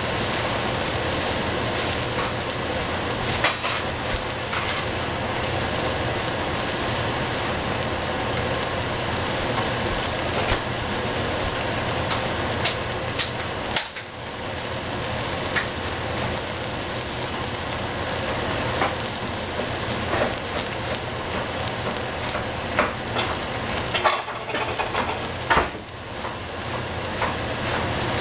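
Hedgehog mushrooms, kale and broccolini frying in a hot pan with a steady sizzle, with scattered clicks and scrapes of a utensil stirring them.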